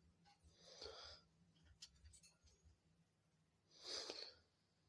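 Near silence with two faint, short breath-like puffs, one about a second in and one near the end.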